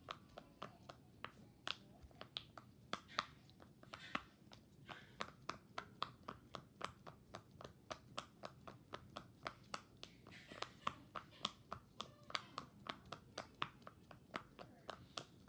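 A rapid, uneven series of sharp pops, about four a second, some louder than others.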